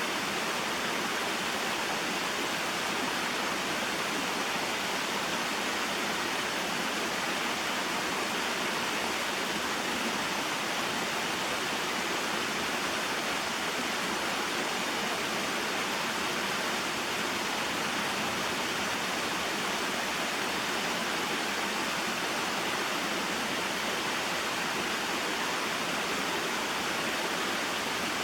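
Small waterfall and mountain stream: a steady, even rush of flowing water.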